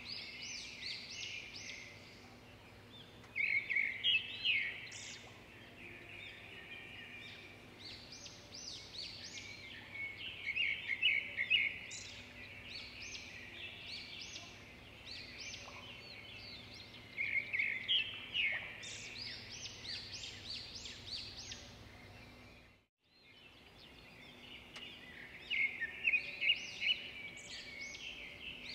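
Birds singing: bouts of rapid, high chirping notes recur every several seconds over a faint steady low hum. The sound drops out for a moment about four-fifths of the way through.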